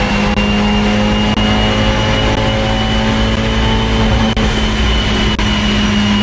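Abarth 124 Spider's 1.4-litre turbocharged MultiAir four-cylinder under load on a chassis dyno during a pull, heard from inside the cabin. The engine note climbs slowly and steadily, with a thin high whine over it. The boost-gauge/intake hose is off for this pull, which the owner thinks may be causing a boost leak.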